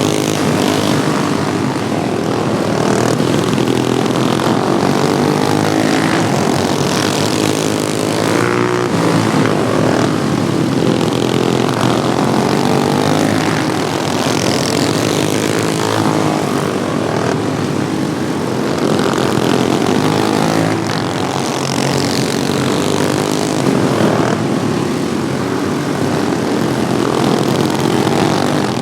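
Engines of modified Wheel Horse racing lawnmowers running hard on track, several at once, their pitch rising and falling as they pass and change throttle.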